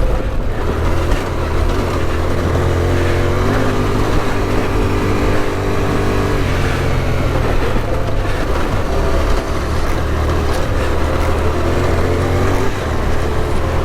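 Adventure motorcycle engine running under load on a rocky trail, its pitch rising and falling with the throttle, under a steady rushing noise.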